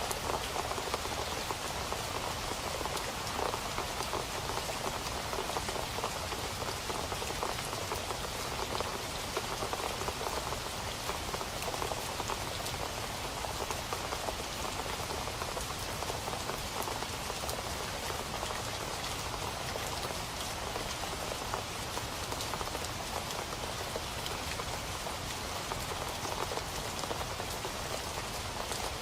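Steady rain falling on a surface, a dense even patter of many drops with countless small splashes.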